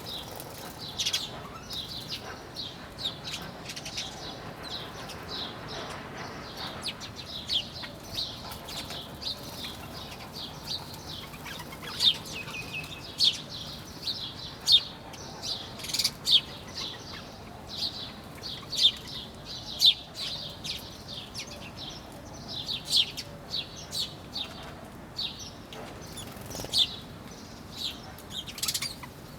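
A flock of small birds chirping together: a dense, unbroken run of short, high chirps, some louder and nearer than others.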